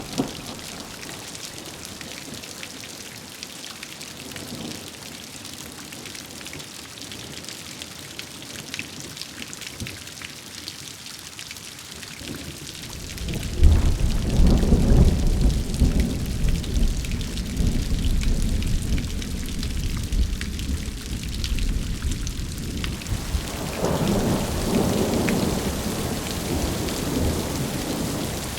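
Steady rain hiss in a thunderstorm. About halfway through, a long low rumble of thunder starts and rolls on for around ten seconds, and a second rumble swells near the end.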